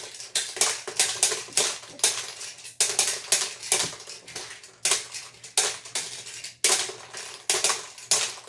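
Hard small objects tapping and clattering in quick, irregular knocks, about two to three a second.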